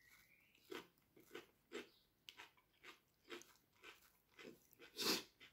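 A person chewing a mouthful of crunchy green salad close to the microphone, short crisp crunches about twice a second with a louder one near the end.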